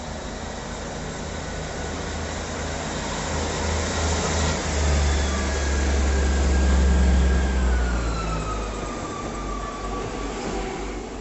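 Diesel train engine running, its low rumble growing louder to a peak about seven seconds in and then easing off, with a whine that falls in pitch as the train moves past.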